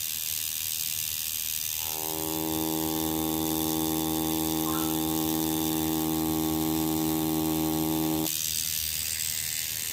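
Tattoo machine running with a steady, even buzz that starts about two seconds in and cuts off about a second and a half before the end. The owner suspects something is wrong with its mechanism, since it lays spotty lines.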